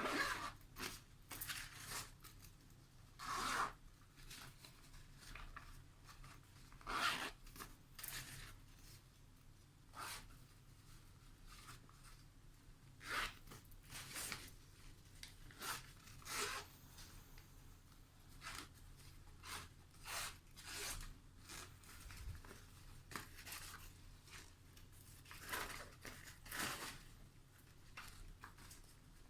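Fabric bags and pouches being handled: short, irregular rustles and zipper pulls, one every second or two.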